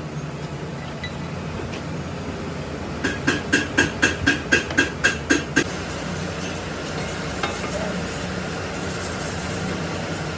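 A hammer striking steel in a quick run of about eleven ringing blows, roughly four a second, over a steady machine hum.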